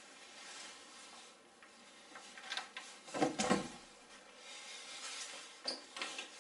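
Rustling and handling noises, with a quick cluster of soft knocks about three seconds in and a sharp click near the end.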